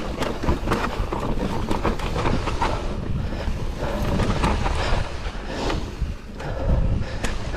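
Mountain bike riding over rough trail: wind buffets the microphone, with frequent clattering knocks and rattles as the bike hits roots and rocks.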